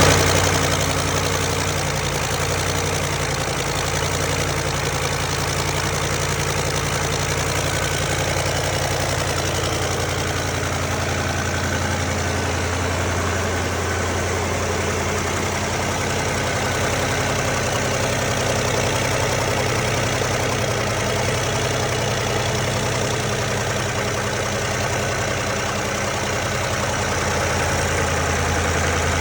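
Caterpillar 3208 V8 diesel engine idling steadily, with no change in speed.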